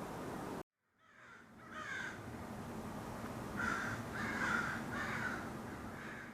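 Crows cawing, a series of about six harsh caws a second or so apart. A steady rushing noise cuts off abruptly just before the caws begin.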